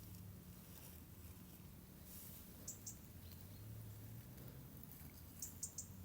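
Quiet background with a faint steady low hum and a few very short, high-pitched chirps, two in quick succession about three seconds in and three more near the end.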